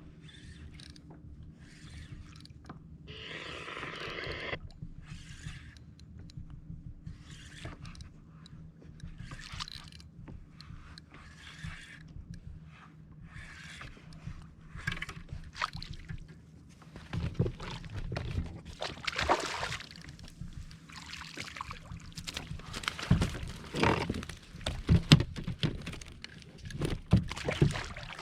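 Kayak paddle strokes in the water: short splashy swishes about once a second over a steady low hum, growing louder in the second half with a few sharper knocks.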